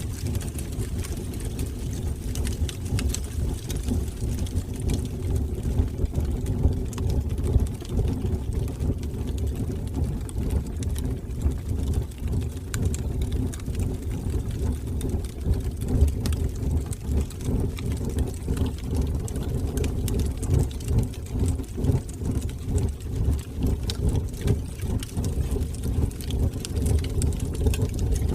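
Wood fire burning in a fireplace: a steady low rumble of flames with scattered crackles and pops throughout.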